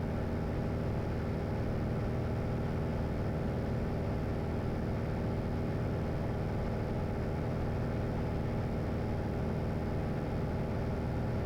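Steady drone of a small airplane's engine and propeller in cruise, heard inside the cockpit, holding one even pitch throughout.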